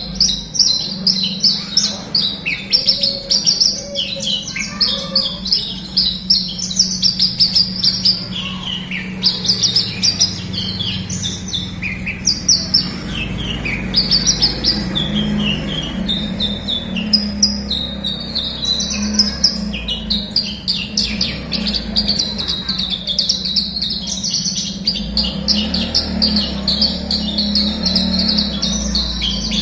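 Horsfield's bush lark (branjangan) singing a fast, unbroken stream of high chirps and trills, over a steady low hum.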